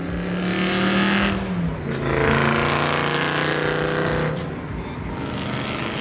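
A car engine running loudly close by. Its steady hum drops in pitch about two seconds in and eases off after about four seconds.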